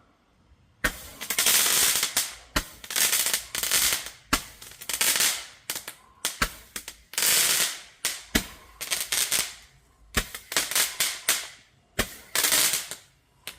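Crackling Roman candle firing, a sharp pop about every two seconds, seven shots, each followed by a second or so of dense crackling from the crackling stars.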